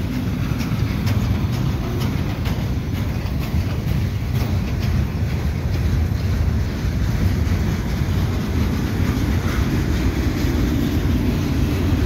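Freight train boxcars rolling slowly past: a steady low rumble of steel wheels on rail, with a scatter of light clicks in the first few seconds.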